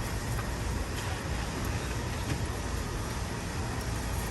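Steady background noise, a low rumble under a light hiss, with no distinct events.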